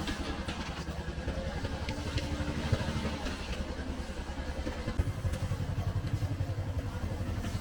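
Motorcycle engine running steadily, with a rapid low pulse and some clatter.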